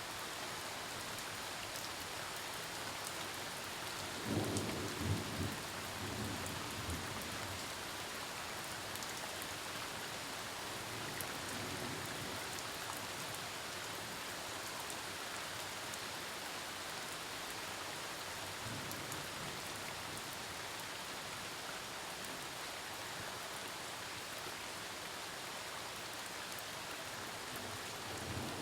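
Steady heavy rain falling, with distant thunder rumbling low about four seconds in and fainter rolls of thunder later.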